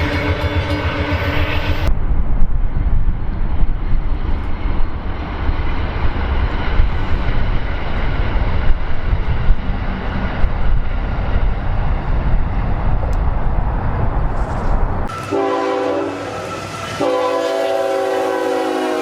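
A train's multi-note air horn sounds briefly. A train then passes with a loud, steady rumble of wheels on rail for about thirteen seconds. From about fifteen seconds in, the horn sounds again in chords that run to the end.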